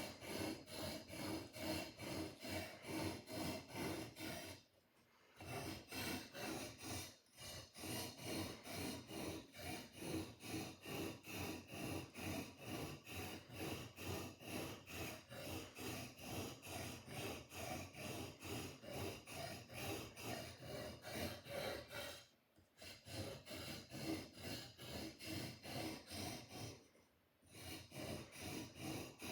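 A sword blade being sharpened: rapid, even rubbing strokes, a few a second, stopping briefly four times.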